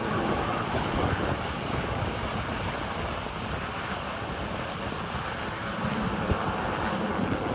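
Wind buffeting the microphone: a steady, gusty rushing rumble.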